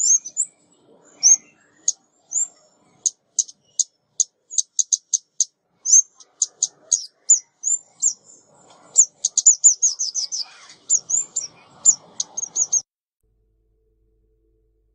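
A female ốc mít, a small songbird, giving a lure call: a quick series of short, sharp, high chirps. The chirps run into a fast trill about ten seconds in, then stop suddenly near the end.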